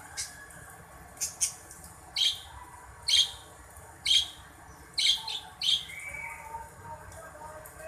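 Birds calling with short, sharp chirps, about eight in a row at roughly one a second, over fainter background bird calls.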